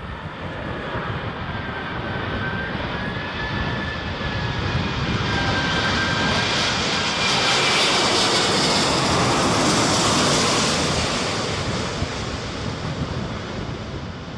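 Airbus A380 jet engines on approach flying past, the noise swelling to a peak about two-thirds of the way through and then easing off. A thin whistling tone wavers in pitch over the first half.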